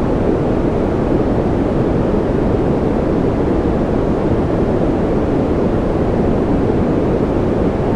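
Steady baby-sleep white noise: an unbroken hiss-like rush with its weight in the low end, so it sounds deep and muffled, with no change or rhythm.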